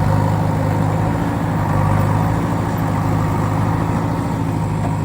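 A heavy truck engine running steadily at an even, idle-like pitch, with no revving.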